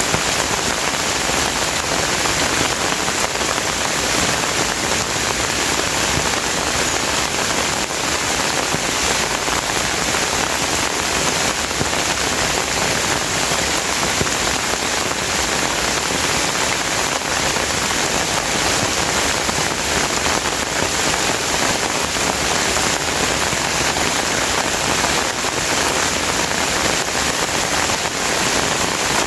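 Steady rain falling, a dense, even hiss of drops that holds at the same strength throughout.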